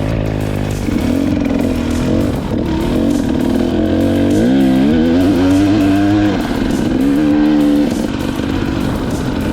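KTM EXC 250 two-stroke enduro motorcycle engine under way, its revs rising and falling as the throttle is worked. Two strong pulls stand out, one about halfway through and a shorter one near the end.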